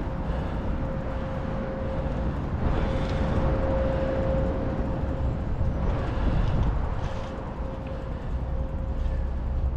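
Wind rushing over the microphone and tyre noise as a Norco Storm mountain bike is ridden along, with a steady hum throughout and the rush swelling twice.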